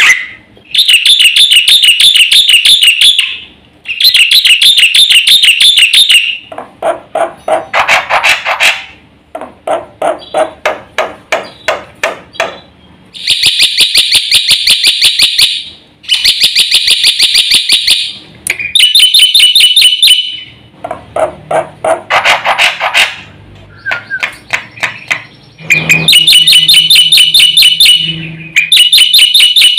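Black-winged myna (jalak putih) singing loudly in repeated bouts of rapid, harsh chattering trills, each a few seconds long with short pauses between. Some bouts are high and ringing, others lower and rattling.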